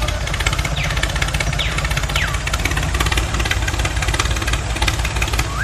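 Small motor of a homemade mini tractor running steadily with a rapid ticking. A few short whistle-like glides fall in pitch in the first half and rise near the end.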